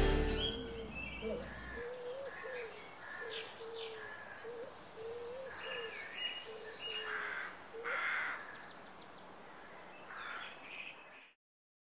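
Birds calling outdoors: a low, wavering call repeated many times, with scattered higher chirps and a few harsher calls above it. It all cuts off suddenly near the end.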